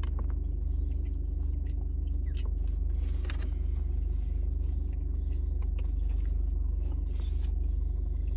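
Someone biting into and chewing an old-fashioned glazed donut, with a few short crisp crunches, over a steady low rumble like an idling car engine.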